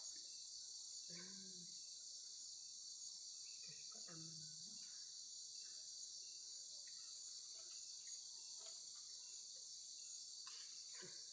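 Steady high-pitched chorus of crickets and other insects. A couple of faint, short voice-like sounds come about a second in and around four seconds in.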